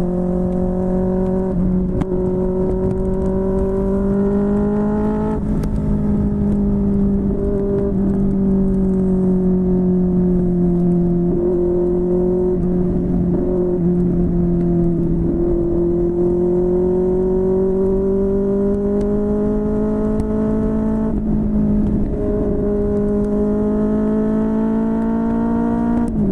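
QJMotor SRK600's inline-four engine through a Yoshimura R11 exhaust, running at steady mid revs. The pitch rises and falls gently, drops suddenly about five seconds in and again around 21 seconds, then climbs again near the end.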